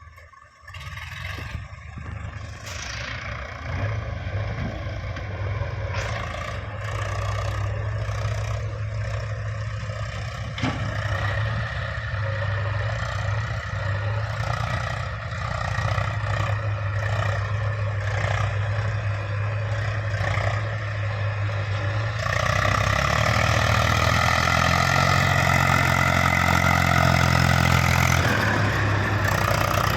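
Heavy diesel machinery engine running steadily from about a second in, with scraping and clattering over it. It grows louder about 22 seconds in.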